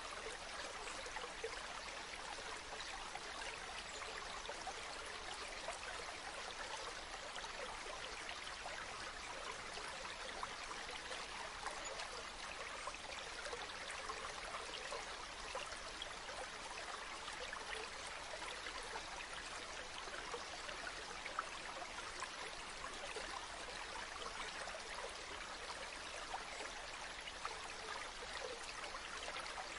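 Running water flowing and splashing steadily, a bright even rush with small splashes and little low rumble.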